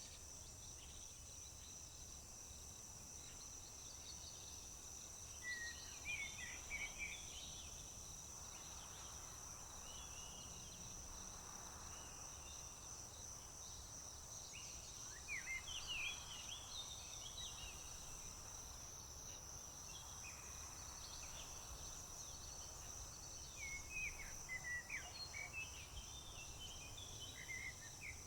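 Crickets trilling steadily on one high pitch, with a songbird singing short chirpy phrases three times: about six seconds in, around the middle, and again near the end.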